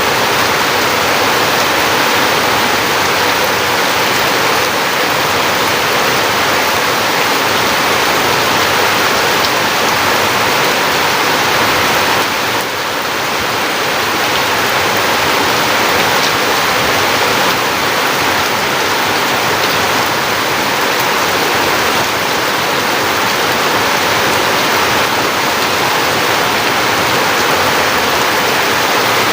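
Heavy rain pouring down in a steady, dense roar of water, with a brief slight dip about halfway through.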